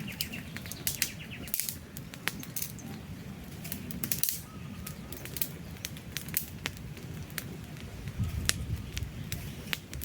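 Campfire of burning logs crackling, with irregular sharp pops over a low steady rush of flame.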